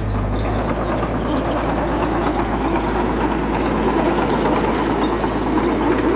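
Diesel engine of a small bulldozer running steadily under load, with a busy metallic clatter over it, growing a little louder toward the end.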